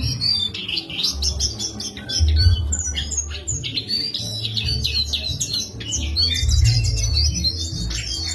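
Caged songbird singing a fast, continuous run of chirps and trills, with a low rumbling thump underneath.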